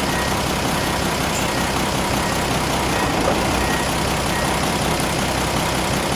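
Nissan FE6 inline-six diesel engine of a bus running steadily at idle.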